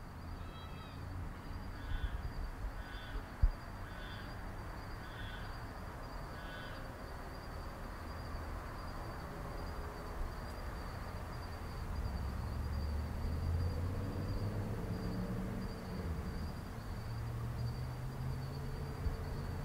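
Night outdoor ambience: a bird calls about six times in an even series, roughly one call a second, over a steady high drone of insects. A sharp knock comes about three and a half seconds in, and a low rumble swells in the second half.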